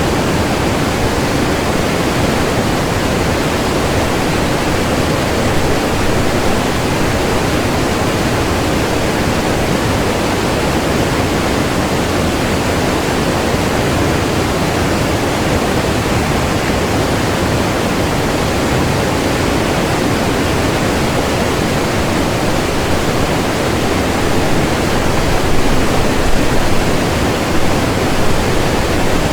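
Rushing water of the Kolvitsa river, a steady dense rush with a few louder surges near the end.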